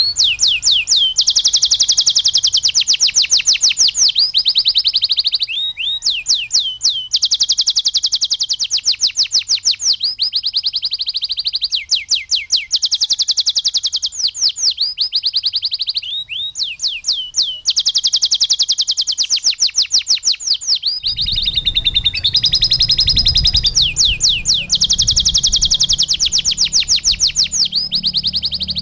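Domestic canary singing long, loud phrases of fast repeated trills, one rolling run after another with short breaks between. A low hum comes in about two-thirds of the way through.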